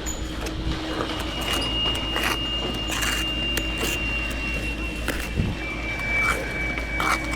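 Construction-site work noise: irregular knocks and clinks over a steady low rumble, with a thin high whine that drops slightly in pitch about two-thirds of the way through.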